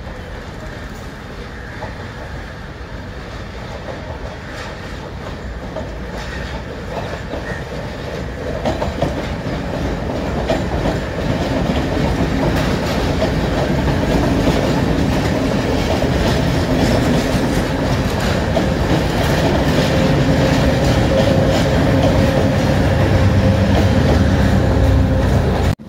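Diesel passenger train approaching and passing close by, its wheels clacking over the points and rail joints and growing steadily louder from about eight seconds in; toward the end a deep steady engine hum comes up under the clacking.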